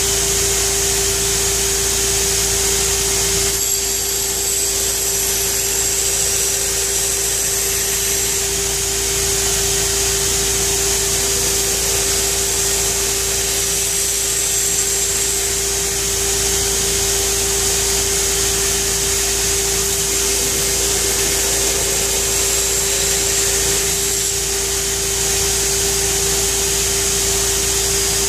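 Pheer 327 2x72 belt grinder running at full speed, its belt grinding a steel knife blade: a steady motor hum under a high grinding hiss that shifts a little as the work moves.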